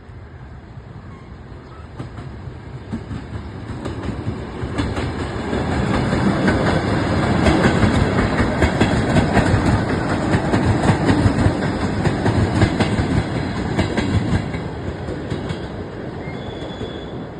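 A train passing by, its wheels clattering over the rail joints. It grows louder from about two seconds in, is loudest through the middle, and fades after about fourteen seconds.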